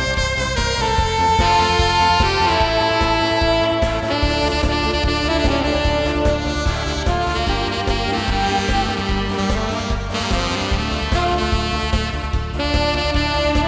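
Alto saxophone playing a trot melody in long held notes over a backing track with a steady drum beat.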